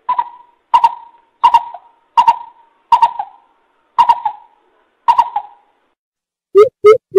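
Coucal (bubut) calling: a series of seven hoots, each falling away, under a second apart. Near the end it switches to a faster run of deeper hoots.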